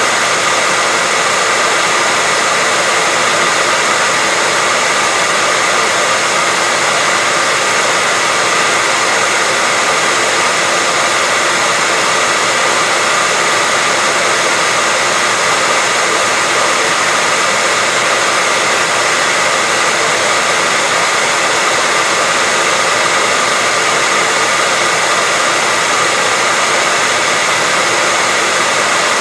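Hair dryer blowing continuously at a steady level, a constant rushing whoosh with a faint motor whine near 2 kHz.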